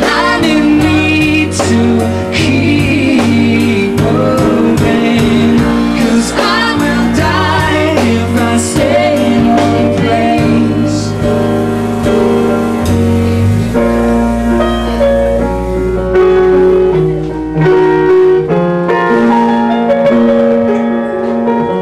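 Band music: a singing voice over keyboard chords and a bass line, with the voice fading out about halfway and the keyboard and bass carrying on.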